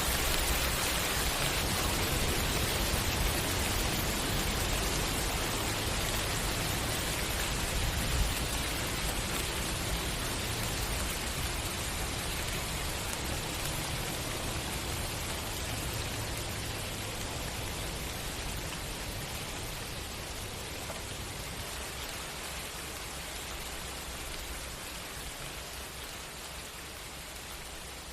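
Steady rain falling, a dense even hiss that slowly fades quieter over the stretch, with one brief sharp tap about eight seconds in.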